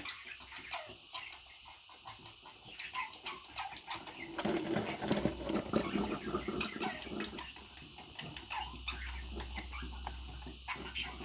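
A pet parrot chattering in a run of short chirps, clicks and squawks, busiest about four to seven seconds in.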